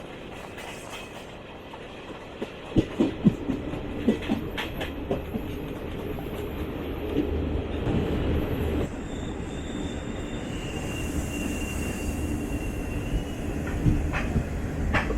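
Garib Rath Express passenger train running on the rails, its wheels clacking over rail joints in a quick run about three seconds in, over a steady rumble. In the second half a thin, steady high wheel squeal holds for a few seconds.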